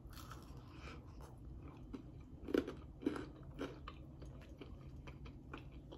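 A person chewing a mouthful of oven-baked pizza close to the microphone. There are three louder short chews about half a second apart, starting about two and a half seconds in.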